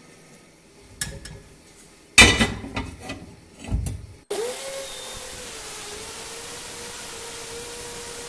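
Metal pieces clank and knock several times, the loudest a little over two seconds in. A bit past four seconds in, a power tool's motor switches on and runs at a steady pitch with a hiss.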